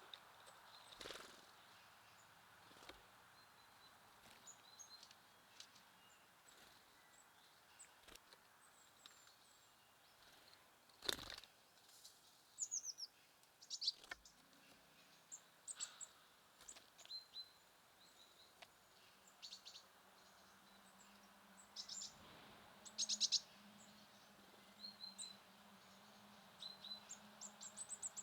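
Small songbirds chirping and calling on and off in short, high notes, with a few sharp taps in between, the loudest about a third of the way in. A faint low hum sets in about two-thirds of the way through.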